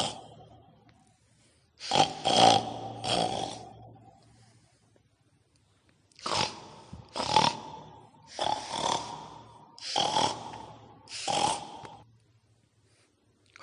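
Pig grunts: a run of short, rough calls in irregular clusters, with gaps of a second or two between them.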